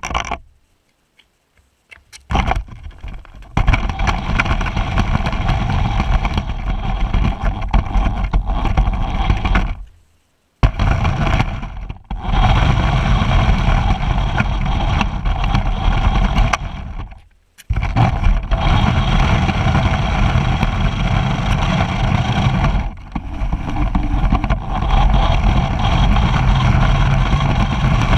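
Race car running at speed, recorded on a GoPro: a loud, dense mix of engine and wind noise. It cuts out to silence several times, briefly just after the start, about ten seconds in and again a few seconds later, then resumes.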